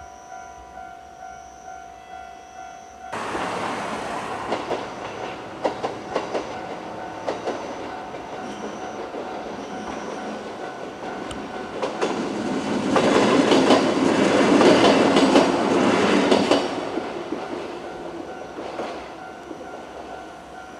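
Japanese level-crossing warning bell ringing at about two strokes a second, then a train passing over the crossing: about three seconds in its rumble comes in, with wheels clacking over the rail joints, loudest a little past the middle as it goes by, then fading while the bell keeps ringing.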